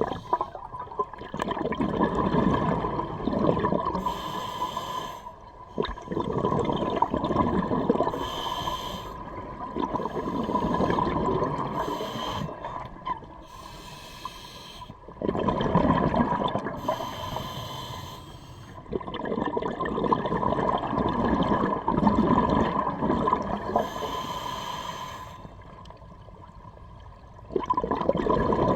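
Scuba diver breathing through a regulator underwater: a hissing intake, then a longer rush of exhaled bubbles, in a slow cycle that repeats every few seconds.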